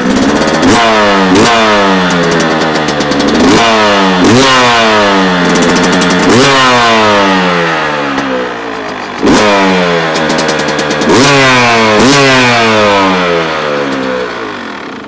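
Carbureted single-cylinder two-stroke engine of a Beta 200 Race Edition dirt bike, not yet warmed up, being blipped on the throttle about eight or nine times. Each rev jumps up sharply and falls back to idle, and the engine settles down near the end.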